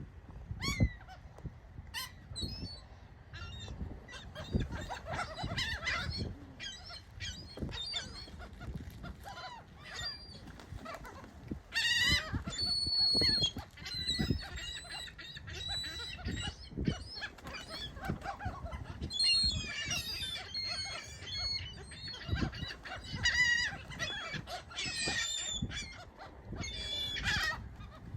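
A flock of birds calling over and over, many short high-pitched cries overlapping, busiest about twelve seconds in and again from about twenty seconds.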